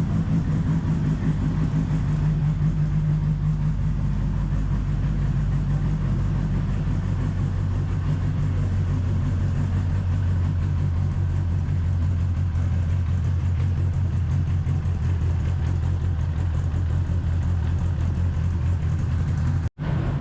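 Twin-turbocharged Dodge Viper V10 idling steadily, its exhaust note muffled by the turbos. The sound drops out for an instant near the end.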